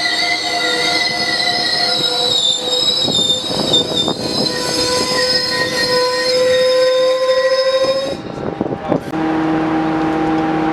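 Train wheels squealing on the rails, several high-pitched wavering squeals at once that cut off suddenly about eight seconds in. A steady lower tone follows near the end.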